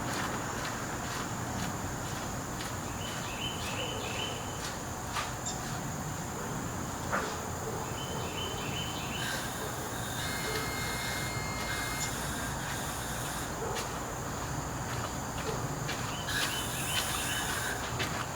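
Outdoor ambience of insects: a steady high-pitched insect drone, with short chirping calls a few times and a couple of light clicks.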